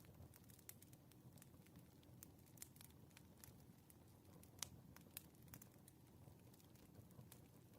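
Faint crackling of a wood fire: irregular small pops and snaps over a low, steady rumble, with one sharper pop about halfway through.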